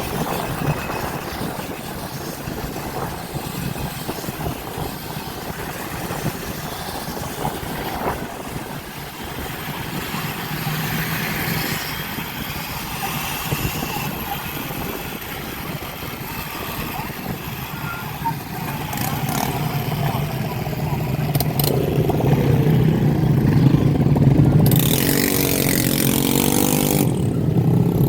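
Motorbike and dirt bike engines running and revving. Past the middle one engine's note falls as it passes, and near the end there is a wavering rev with a loud rush of hiss.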